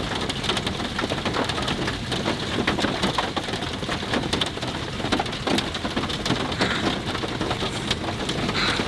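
Heavy rain falling hard, an even dense wash of noise with many separate drop hits on a surface.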